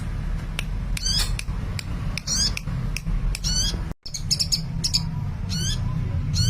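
Sunbird (Indonesian 'kolibri') calling actively: about six short, high, squeaky warbling calls with sharp clicks between them, over a steady low hum. The sound drops out completely for an instant about four seconds in.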